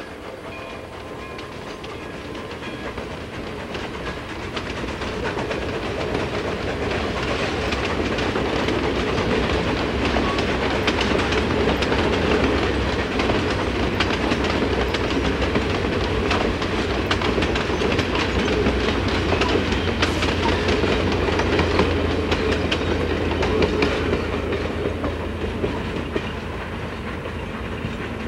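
Passenger cars of a steam-hauled train rolling past, their wheels clicking over the rail joints in a steady clatter. It swells over the first several seconds and eases off over the last few.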